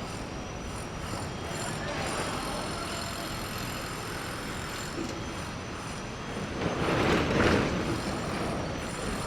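Steady outdoor traffic noise, with one vehicle passing louder about seven seconds in.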